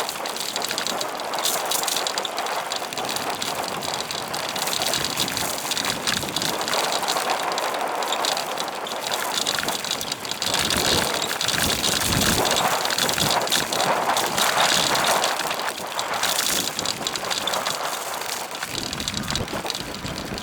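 Wind rushing over the microphone and bicycle tyre noise while riding, a steady rush with stronger gusts in the middle and near the end.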